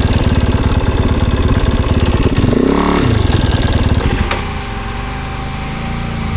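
Adventure motorcycle's single-cylinder engine running, revved up and back down once about halfway through, then settling to a quieter steady run after about four seconds.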